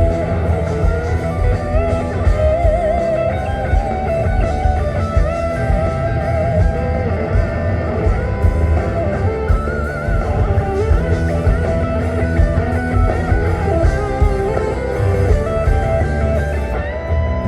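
Live rock band playing an instrumental passage without vocals: an electric guitar plays a lead line with bent and wavering notes over bass and drums.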